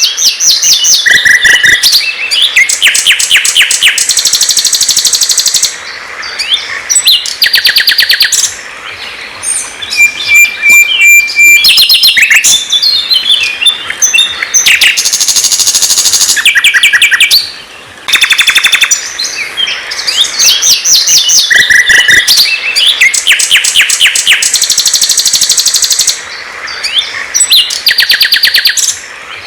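Sikatan londo (flycatcher) song: loud, rapid high trills and rattling phrases broken by short clear whistles, repeated phrase after phrase with brief pauses between.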